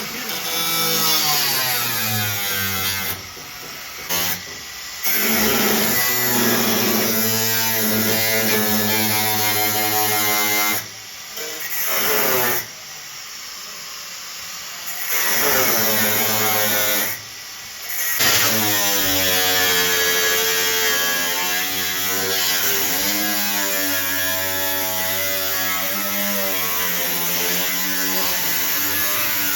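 Handheld electric power tool running, its motor whine sliding up and down in pitch as the load changes, in several stretches broken off abruptly.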